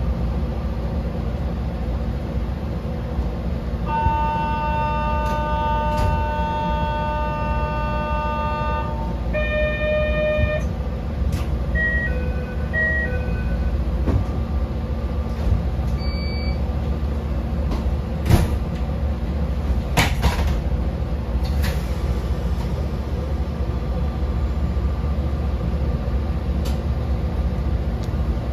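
Interior of a narrow-gauge Yokkaichi Asunarou Railway car: a steady low rumble from the car. About four seconds in comes a long electronic tone, followed by a run of short beeps up to about thirteen seconds, and a few sharp clicks come later.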